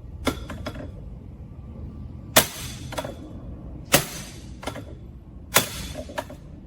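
Steel hammer striking a screwdriver held as a drift against a stuck trike part: four hard metallic blows about a second and a half apart, each followed by a lighter knock, driving the part home.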